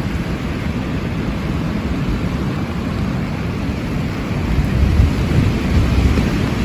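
Heavy rain falling steadily, with a deep rumble of thunder that swells a little over halfway through.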